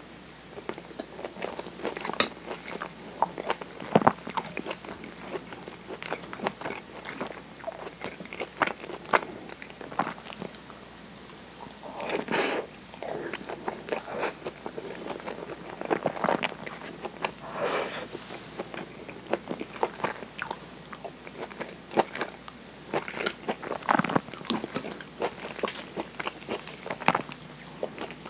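A person biting and chewing mouthfuls of okonomiyaki (cabbage pancake with sauce and mayonnaise), picked up by a clip-on microphone close to the mouth. It comes as irregular mouth clicks and smacks, with a few longer, louder chews along the way.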